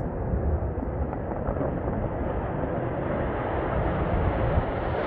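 Distant fighter jet engine noise, a low rumbling rush that slowly grows brighter as the aircraft nears on its takeoff.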